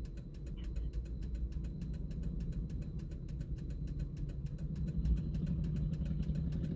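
Vehicle engine idling, a steady low rumble, with a faint rapid ticking over it.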